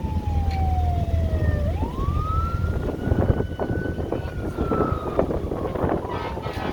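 Fire truck siren wailing: its pitch falls slowly, sweeps back up about two seconds in, holds high, then slowly falls again. Underneath is a low rumble of engines.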